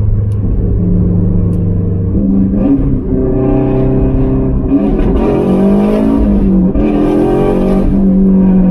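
Subaru WRX STI's turbocharged EJ25 flat-four engine heard from inside the cabin under way. The engine note is steady at first, then steps up about two seconds in and climbs in pitch as the car accelerates, with brief dips in between.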